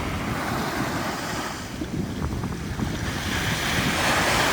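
Ocean surf washing onto the beach, with wind buffeting the microphone. The rush eases slightly about halfway through and builds again near the end.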